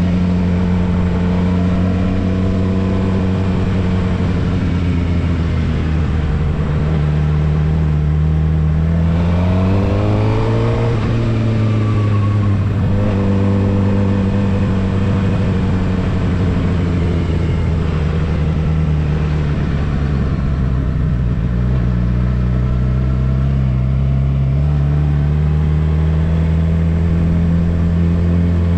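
Suzuki GSX-R750 inline-four engine running steadily under light throttle. It revs up sharply about a third of the way in and settles back. Its pitch then sags and climbs again near the end.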